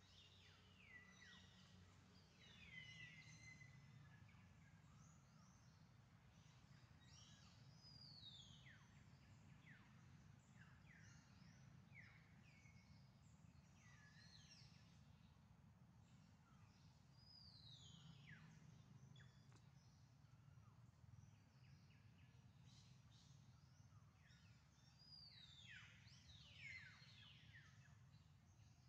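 Faint outdoor ambience: birds calling with many short, high chirps that fall steeply in pitch, scattered throughout, over a low steady background rumble.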